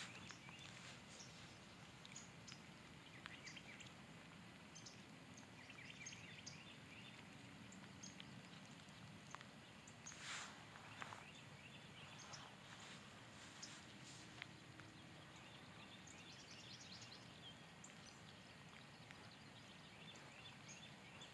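Near silence: faint outdoor ambience of light rain, with scattered soft ticks of drops and a few faint distant bird chirps now and then.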